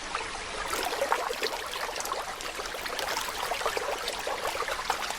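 River water rushing, with many small splashes that thicken from about a second in.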